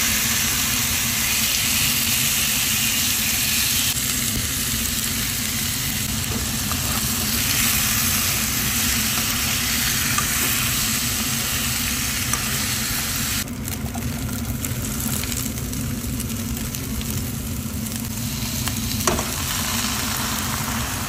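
Marinated chicken pieces sizzling as they fry in oil in a frying pan, stirred now and then with a metal spoon, over a steady low hum. The sizzle gets quieter about two-thirds of the way through, and there is a small click near the end.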